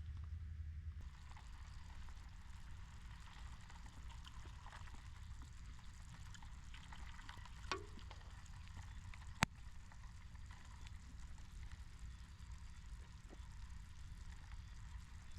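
Small wood campfire crackling softly, with scattered small ticks and two sharp pops about eight and nine and a half seconds in, over a steady low rumble.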